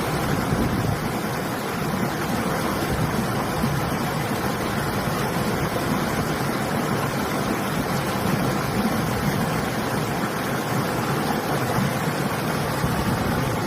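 Steady rushing of a flowing river mixed with winter wind, an even noise with no breaks.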